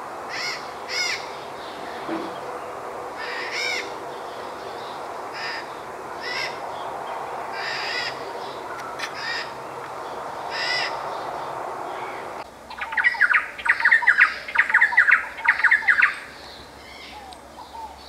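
Wild birds calling: short high calls repeated every second or two, then about two-thirds of the way through a run of loud, harsh, rapid calls for a few seconds.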